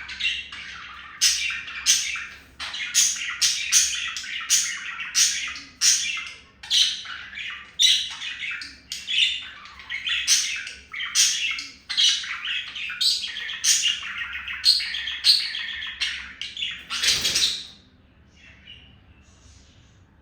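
Budgerigars chattering and warbling rapidly, with sharp chirps about twice a second, during mating; the chatter stops near the end.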